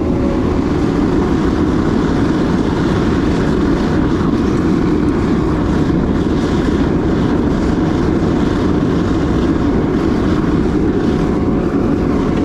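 Burner of a homemade crucible furnace running at full fire, a loud, steady roar with no change.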